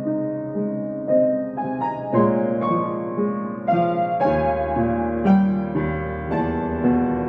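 Piano playing a slow, gentle piece, single notes and chords struck about every half second, with a deep bass note coming in about four seconds in.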